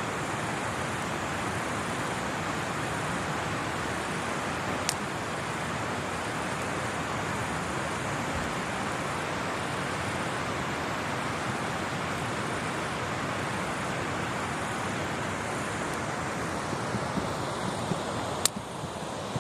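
Driftwood campfire burning: a steady rushing noise with only a few sharp crackling pops, one about five seconds in and a cluster with one loud pop near the end.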